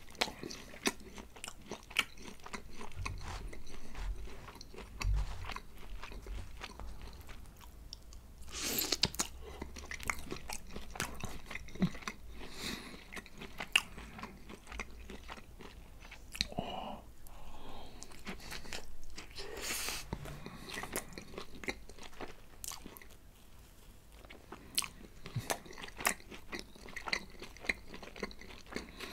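Close-miked chewing of a slice of pepperoni pizza: many wet mouth clicks and smacks, with a few louder bites scattered through.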